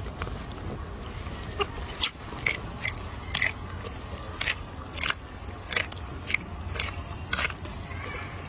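About a dozen short, crisp crunches at irregular intervals, starting about a second and a half in, like something crunchy being bitten or chewed.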